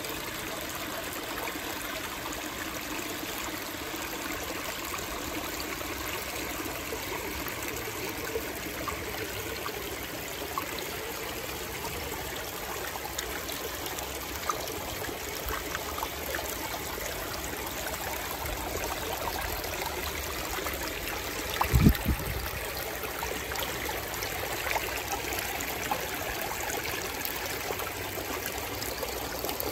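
Small garden waterfalls spilling into a reservoir: a steady trickling and splashing of falling water. A brief low thump about two-thirds of the way through.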